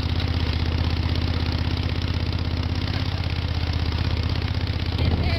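Moto Guzzi motorcycle engine running at a steady pace, its note getting a little louder near the end.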